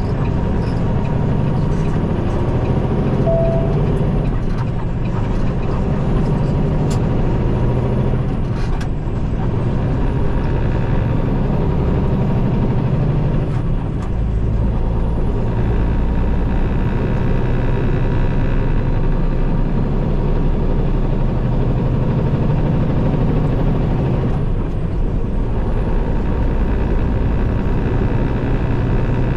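Peterbilt 389 semi truck's diesel engine and road noise while driving, a steady loud drone whose low engine note changes a few times along the way.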